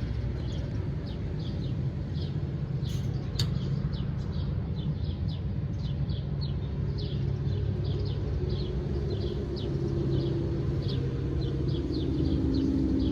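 Small birds chirping outdoors: short, high chirps repeating several times a second, over a steady low rumble like distant traffic. A low hum swells near the end, and a single sharp click comes about three seconds in.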